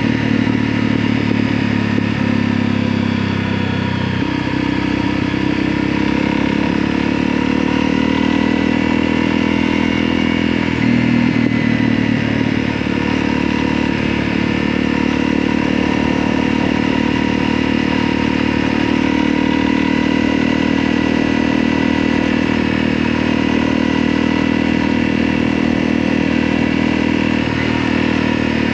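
Motorcycle engine running steadily while riding, its pitch shifting about four seconds in and again about eleven seconds in.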